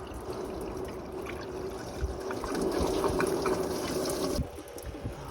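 Liquid pouring or running steadily, cutting off suddenly about four seconds in.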